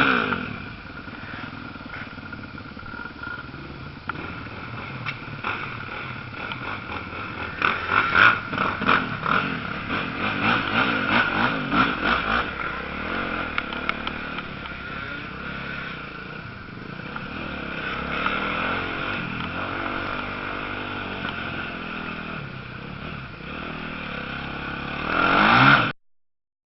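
Motocross bikes racing, their engines revving up and down as they pass, louder and busier through the middle. Near the end one bike swells up loudly, and then the sound cuts off suddenly.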